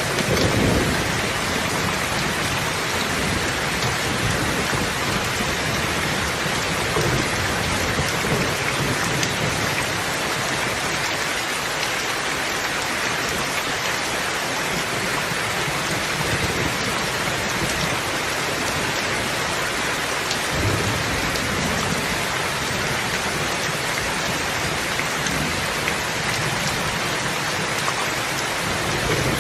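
Steady heavy rain falling, with low rolls of distant thunder rumbling near the start and again around two-thirds of the way through.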